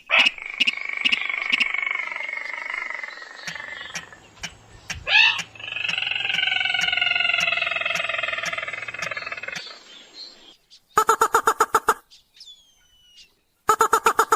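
Rail calls from a lure-call recording made to draw in sintar (mandar padi). There are two long drawn-out calls that slowly fall in pitch, then bursts of rapid pulsed notes near the end.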